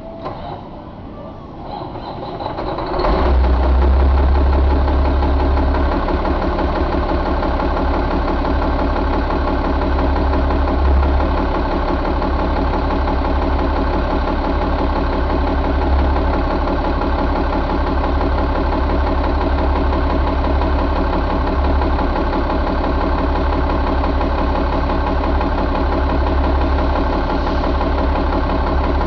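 2003 Caterpillar C12 inline-six diesel engine being cranked, catching about three seconds in and then idling steadily with a heavy low rumble.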